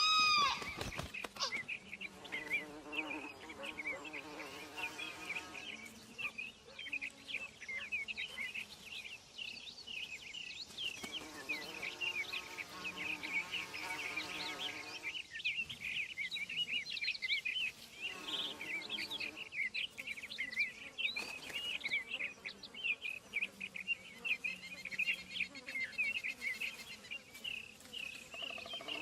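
Outdoor nature ambience: a dense, continuous chorus of insects and birds chirping, with one louder call right at the start.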